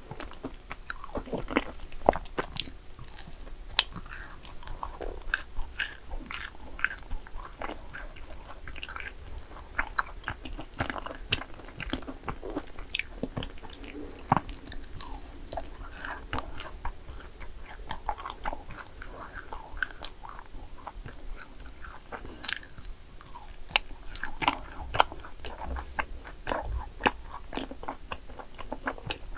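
Close-miked eating of yakgwa cookies: crunchy bites and chewing, with many sharp irregular crackles throughout.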